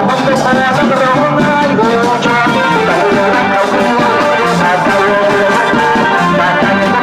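Thai trae wong brass band playing: wind instruments carry a sustained melody over steady drums and shaken percussion.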